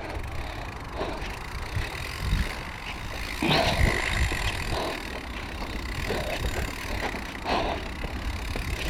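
Mountain bike riding down a rough, rocky trail: a steady rumble of tyres and wind on the microphone, with scattered knocks and clatter as the bike hits rocks, busiest about midway.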